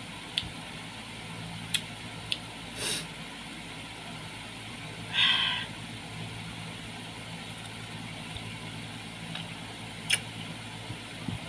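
Eating sounds from chewing unripe mango dipped in salt: scattered short smacks and crunches, with one longer, louder wet mouth sound about five seconds in. A steady low hum runs underneath.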